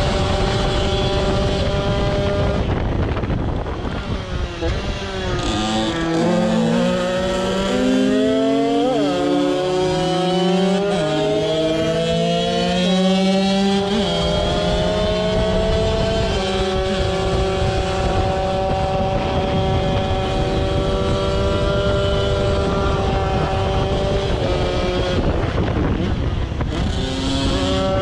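Tuned two-stroke moped engine with a TPR 76 cylinder kit, a 24 mm Mikuni carburettor and a DRP expansion-chamber exhaust. It runs at speed, its pitch climbing and dropping several times in the first half, then holds a steady high pitch before dipping briefly near the end.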